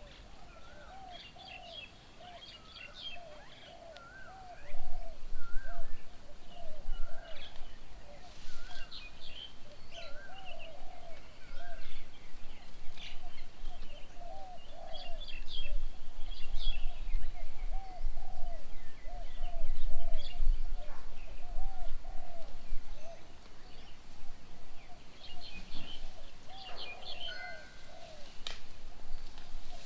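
Several birds calling at once: a fast, continuous chatter of short, low, repeated arched notes, with higher whistled notes and scattered chirps over it. A low rumble runs underneath and gets louder about five seconds in.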